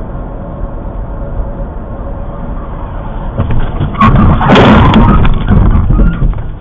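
Steady road and engine noise of a car driving. About three and a half seconds in comes a loud, jumbled burst of rushing noise and knocks lasting a couple of seconds, with a brief hiss at its height.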